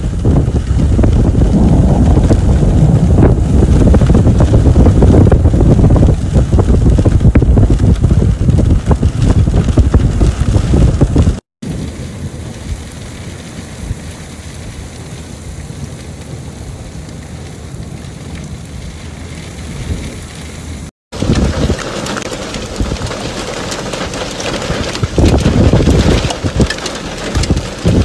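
Storm wind and rain: heavy wind buffeting the microphone for about eleven seconds, then, after an abrupt cut, a quieter steady hiss of rain. After a second cut the wind and rain come back louder.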